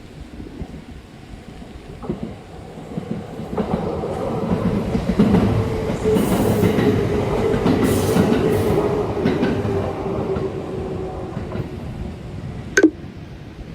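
Kintetsu electric train passing at speed: it builds up about four seconds in and fades after about eleven, with wheels clacking over the rail joints and a steady hum throughout. A single sharp click comes near the end.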